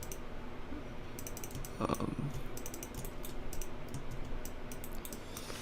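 Typing on a computer keyboard: a quick, irregular run of key clicks while material names and shortcuts are entered.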